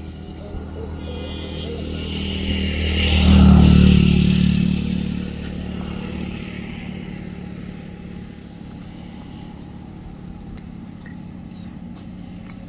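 A motor vehicle passing close by, its engine and road noise growing louder to a peak about three and a half seconds in, then fading away, over a steady low engine hum.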